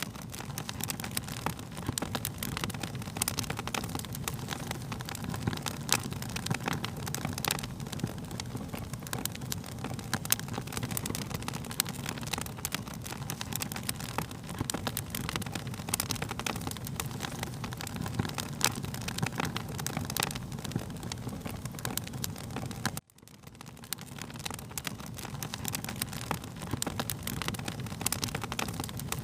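Wood fire crackling: many sharp little pops and snaps over a steady low rumble. About 23 seconds in, the sound drops out for an instant and fades back in.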